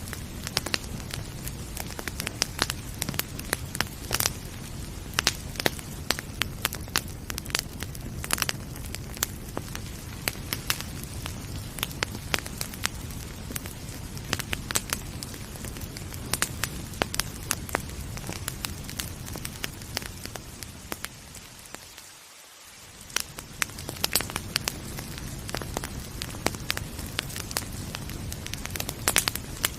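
Wood fire crackling and popping in a fireplace, with sharp snaps scattered irregularly over a steady hiss of rain. About two-thirds of the way through, the whole sound briefly fades down and swells back up.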